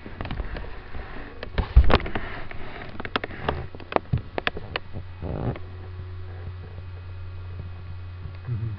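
Shar pei puppy sniffing and snuffling at close range, with many sharp clicks and bumps over the first five seconds, over a steady low hum.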